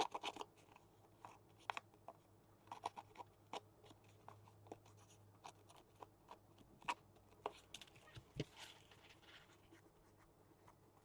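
Faint, scattered small taps and scratchy rubbing of paper and craft tools being handled on a work table while decorating a paper journal card.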